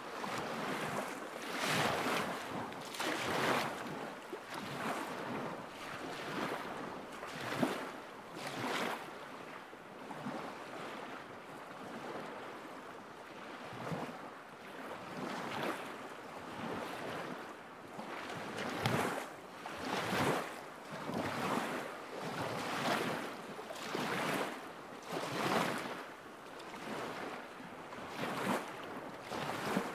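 Small lake waves lapping against the shore, a soft splash every second or two over a steady wash of wind.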